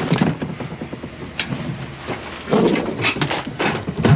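Scrap metal being handled: a run of knocks and clanks, busiest a little past the middle.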